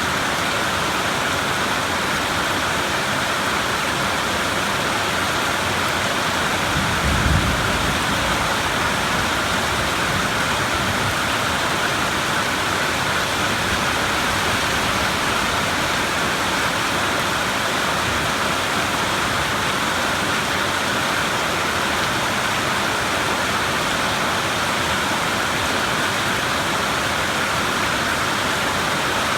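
Steady heavy rain, with a short low rumble of thunder about seven seconds in and a fainter one a few seconds later.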